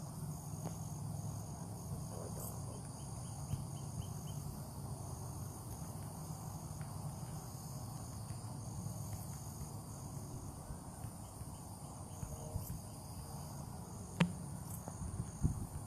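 Insects chirping outdoors in a steady, evenly pulsing high trill, over a low steady rumble.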